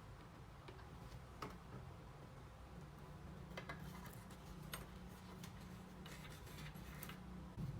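Faint, scattered light clicks and taps, like small parts or tools being handled, over a low steady hum.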